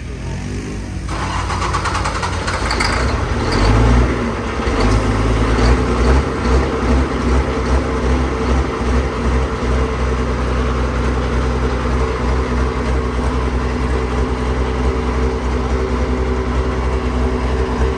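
Fendt tractor's diesel engine running while pulling a track scraper. It grows louder about a second in, swells briefly around four seconds, then runs steadily.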